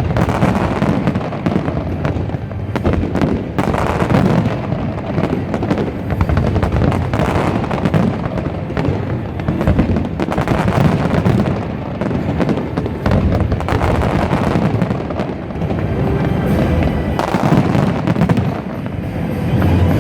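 Large fireworks display: a dense, unbroken barrage of booming bursts and crackles.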